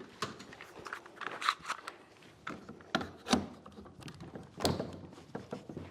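A clamp being fitted and tightened onto a wooden table base: a series of irregular clicks and knocks of the clamp and wood, the loudest about a second and a half, three and a half, and four and a half seconds in.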